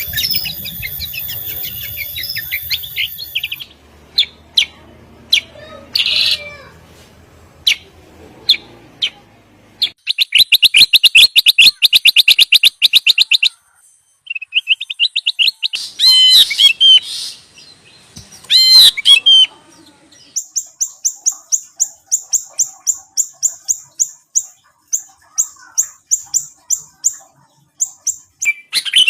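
Bulbuls calling in a string of different calls that change abruptly: a fast chattering run of notes, then loud whistled phrases, then a long quick series of short high notes.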